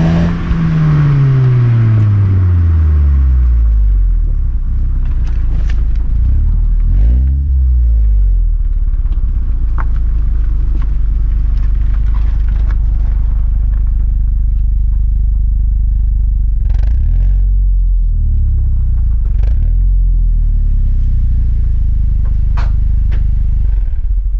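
Engine exhaust of a vehicle being tested: the revs fall back from a rev at the start, then a short throttle blip about seven seconds in. A steady low idle follows with a couple of slight rises, and the sound stops at the very end.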